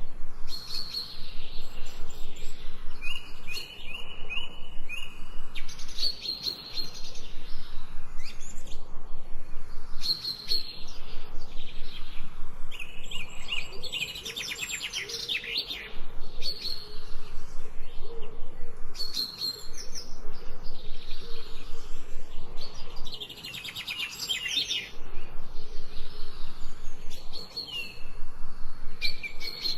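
Songbirds chirping and singing: short repeated calls and fast rippling trills, the trills near the middle and again near the end.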